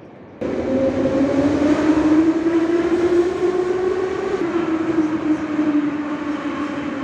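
Metro train running, its traction motors giving a strong whine over the rumble of the cars. The whine starts suddenly, rises in pitch, drops a step a little after four seconds in, then sinks slowly.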